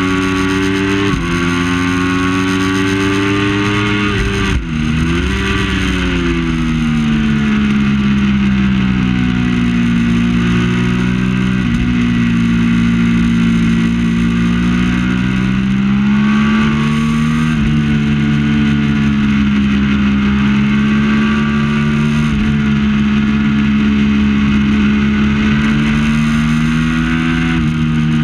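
Triumph Daytona 675's three-cylinder engine running hard at racing revs, its pitch climbing and falling with throttle and gear changes. There is a sharp dip and recovery about four and a half seconds in, then a long fall in pitch and a slow rise again.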